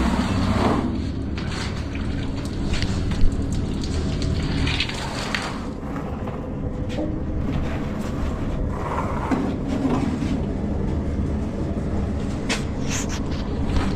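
Steady low mechanical hum, like a running motor, with scattered knocks and clicks; one sharp knock about three seconds in.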